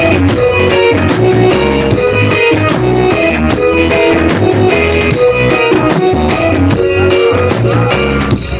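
Loud music with heavy bass and plucked-guitar notes played through a large parade sound system. It stops at the very end.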